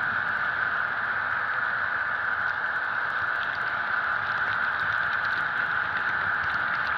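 HO scale model train running steadily, its Soundtraxx Tsunami sound decoder playing a diesel locomotive engine through a small onboard speaker, with faint light ticks.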